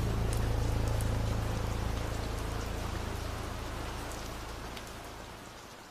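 Steady rain with scattered sharp drop ticks and a low rumble underneath, fading out gradually.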